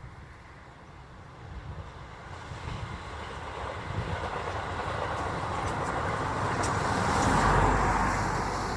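A train approaching on the rails, its running noise growing steadily louder to a peak near the end, with a few sharp clicks in the last seconds.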